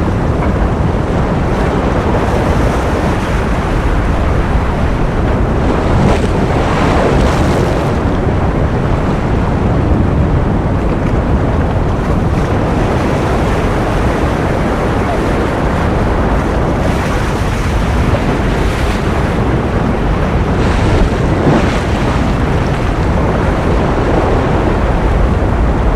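Ocean surf as a continuous dense rush of breaking waves. A few louder, brighter swells wash in, about six seconds in and again near the twenty-one-second mark.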